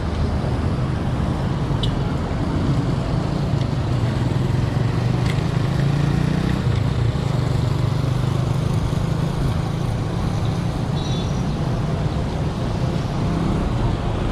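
Steady rushing road noise while riding a bicycle along a road, with motor traffic.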